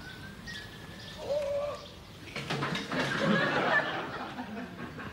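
Birds calling, with a short low held call about a second in and a louder, noisy stretch of about a second and a half in the middle.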